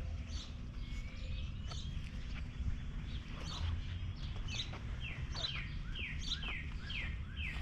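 Songbird chirping: scattered short chirps, then a run of quick falling chirps repeated about twice a second in the second half, over a steady low background rumble.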